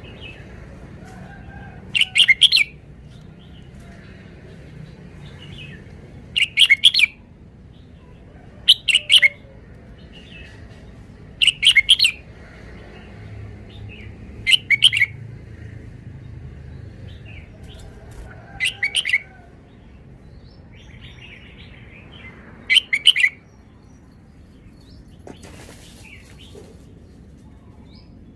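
Red-whiskered bulbul singing short, quick phrases of a few notes each, about seven times, with pauses of two to four seconds between them.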